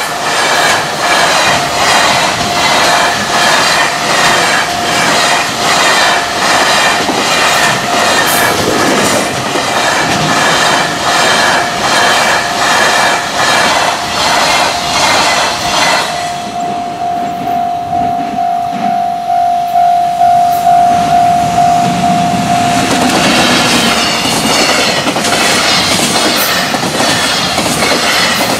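Long container freight train passing at speed, its wheels clattering over the rail joints, with a level-crossing warning bell ringing throughout. About two-thirds of the way in the train noise drops away and the crossing bell's tone stands out. Near the end a second freight train's clatter comes in.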